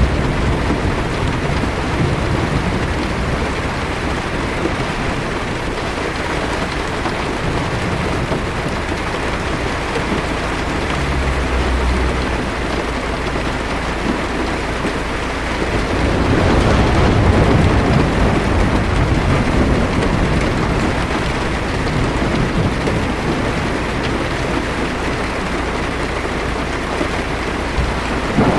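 Heavy rain falling on a car's windshield and roof, heard from inside the car, with a low rumble of thunder that swells a little past halfway.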